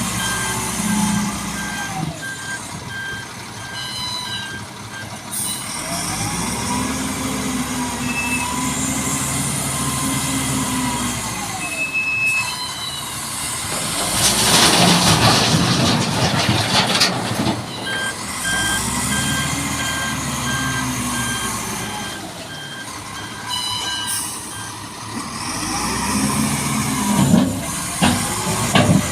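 Dump truck's reversing alarm beeping in two spells, while the truck engine revs up and falls back several times. A loud hissing rush comes about halfway through.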